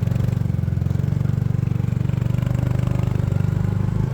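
Small 125 cc motorbike engine running steadily at a constant speed, heard from the bike itself, with a fast, even exhaust pulse.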